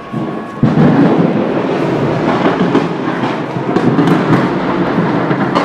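Gas explosion at a filling station: a sudden loud blast about half a second in, followed by a dense, steady noise full of crackles.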